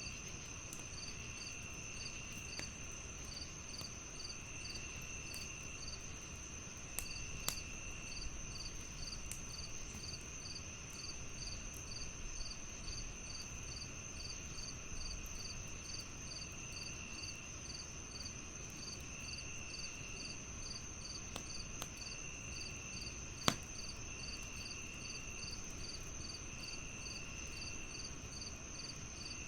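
Crickets chirping steadily: a high continuous trill, a regular chirp about three times a second, and a lower trill that comes and goes in stretches of a second or two. Over this, a wood fire in a fireplace crackles with scattered sharp pops, the loudest about three-quarters of the way through.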